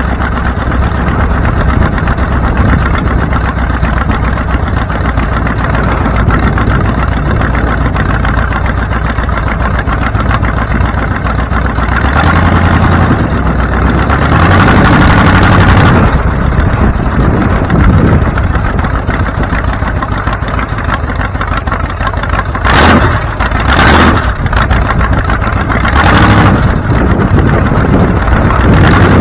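Vehicle on the move: steady engine and road rumble. It swells louder for a couple of seconds about halfway through and comes in three short loud bursts near the end.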